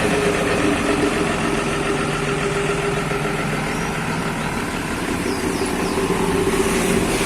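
Truck engine idling steadily through an aftermarket "wolf" exhaust, running at a constant pitch with no revving.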